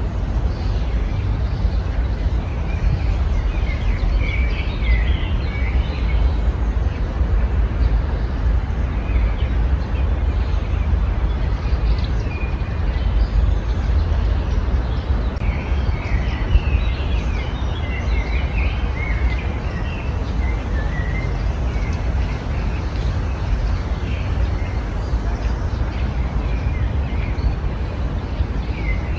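Small birds chirping and twittering in short bursts, busiest twice, over a steady low rumble.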